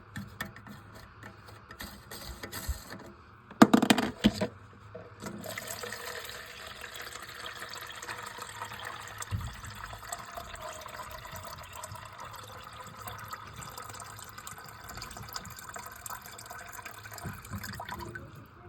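A few clicks and a loud knocking burst about four seconds in, then water running into a toilet tank with a steady hiss that stops near the end.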